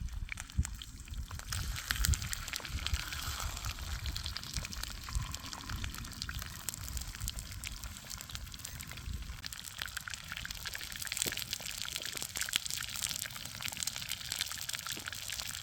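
Food frying in hot olive oil in a pan over a campfire: a steady sizzle with many small crackling pops.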